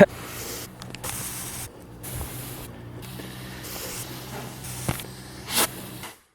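Firework rockets hissing in spurts as they burn, broken by short gaps, with a sharp pop about five and a half seconds in.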